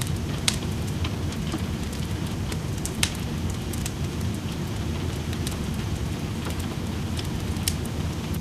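Wood fire crackling in a fireplace, with sharp pops scattered irregularly (the loudest about half a second and three seconds in), over a steady low rumble of rain.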